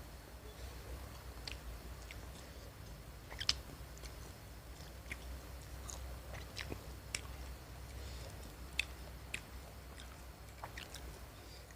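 Close-up mouth sounds of someone chewing fried Indonesian street snacks (gorengan), with irregular short wet clicks and smacks, the loudest about three and a half seconds in, over a low steady hum.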